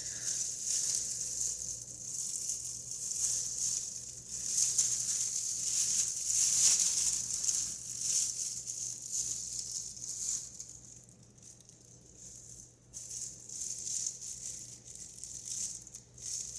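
Small plastic and metal parts of a GFCI outlet rattling and scraping as they are handled and worked apart, in irregular spells, quieter after about 11 seconds. A steady hiss and faint hum lie under it.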